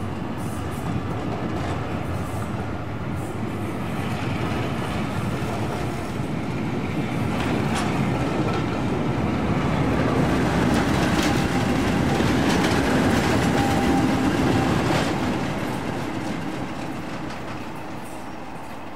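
Diesel-hauled heritage train passing. The rumble builds to its loudest about two-thirds of the way through and then fades, with a few sharp clicks from the wheels on the rails as it goes by.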